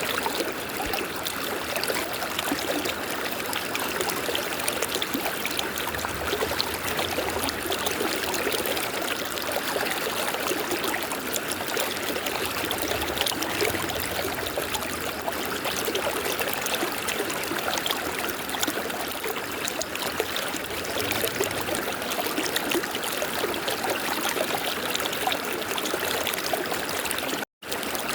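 River water flowing steadily, a continuous rushing and trickling stream. The sound cuts out for an instant near the end.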